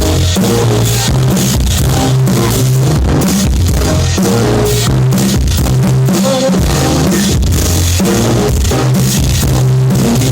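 Live rock band playing, with drum kit, bass and guitar, recorded loud and distorted.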